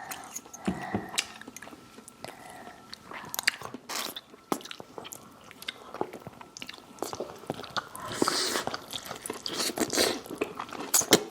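Crunching bites into crispy fried chicken and chewing, a run of short crackles. The bites come thicker and louder about two-thirds of the way in and again near the end.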